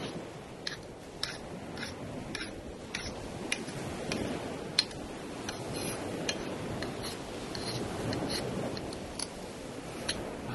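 A knife working at something, with irregular short scraping clicks about once or twice a second over a steady low rushing background.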